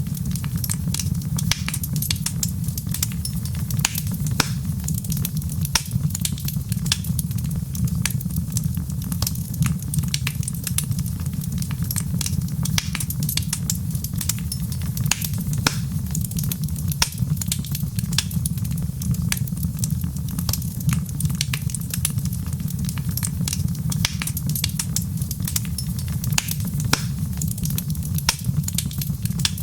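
Wood fire crackling steadily in a fireplace: a constant low rumble of flames with dense, irregular small pops and snaps throughout.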